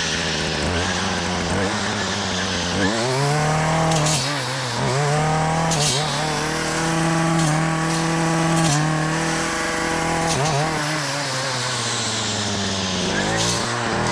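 Gas brush cutter's small engine idling, revving up about three seconds in and held at high speed while it clears thick brush, then dropping back to idle near the end.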